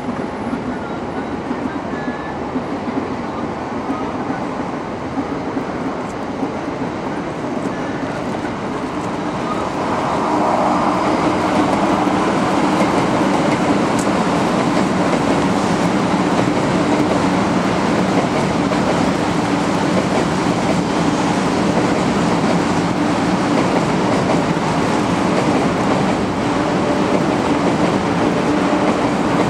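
Electric train running past on the tracks. Its noise grows louder about ten seconds in and then holds steady, with a low hum underneath.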